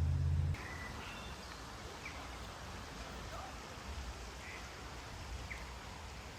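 Outdoor ambience of a steady background hiss with scattered short bird chirps. A low rumble cuts off abruptly about half a second in.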